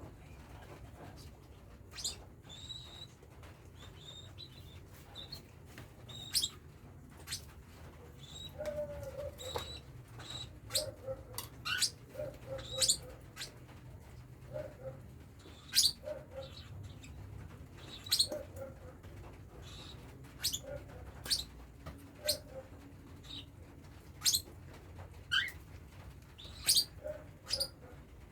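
Cockatiels chirping: many short, sharp chirps at irregular intervals, with softer low notes between them, over a low steady hum.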